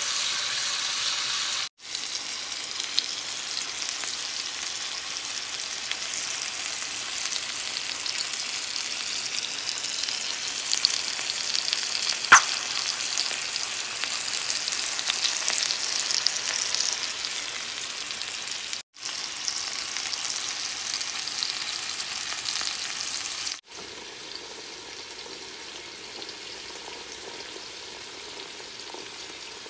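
Chicken thighs sizzling as they fry in a pan, a steady hiss with scattered crackles and one sharp pop near the middle. The sizzle breaks off briefly three times and is quieter over the last quarter.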